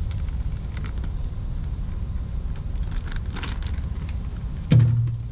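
Scattered light clicks and rustles of small parts being handled, over a steady low rumble. A low hum comes in suddenly near the end.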